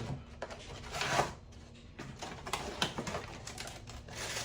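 Rustling and light clicks of camera packaging being handled, with a longer rustle about a second in and a few sharp clicks after.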